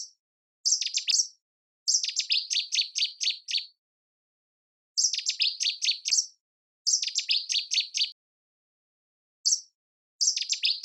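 A songbird singing in short phrases of quick, high chirps, each phrase a rapid run of notes that drop in pitch, about six phrases with brief silent gaps between them.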